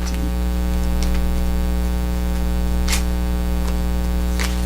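Steady electrical mains hum in the recording, a buzzing drone with many overtones, with a few faint ticks over it.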